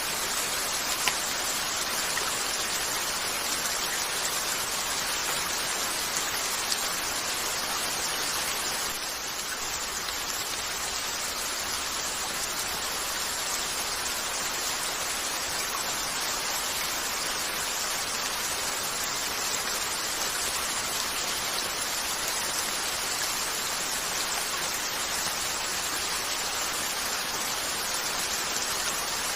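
Steady rain falling on a window, an even hiss with a few faint sharp clicks, dipping slightly about nine seconds in.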